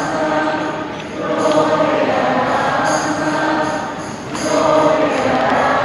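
Choir singing in long held notes, the phrases pausing briefly about a second in and again near four seconds.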